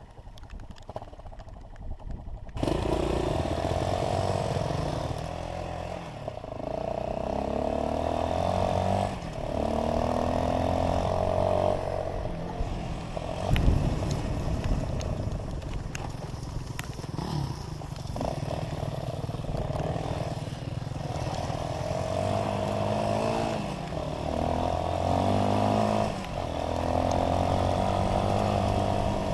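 Dirt bike engine running under way, its revs climbing and dropping back again and again. It comes in loud about two and a half seconds in, after a quieter start.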